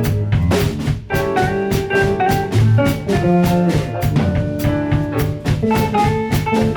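A band plays an instrumental jazz number with a drum kit keeping a steady beat under a bass line and a moving melody.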